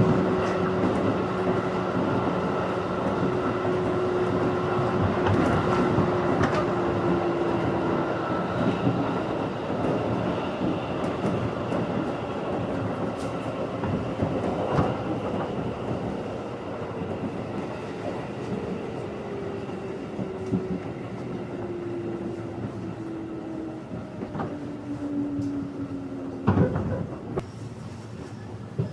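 Running sound of a 211 series electric train heard from inside the car. Its steady hum and several tones slowly fall in pitch and level as the train slows, with occasional sharp clacks from rail joints, the loudest near the end.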